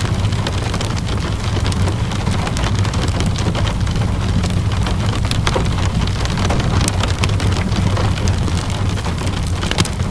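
Steady rainfall mixed with a crackling wood fire: scattered sharp pops and snaps over a continuous hiss of rain, with a steady low rumble underneath.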